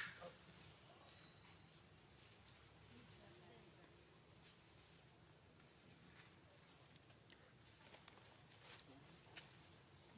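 Near silence with a faint, high chirp repeating evenly about twice a second, and a few soft clicks.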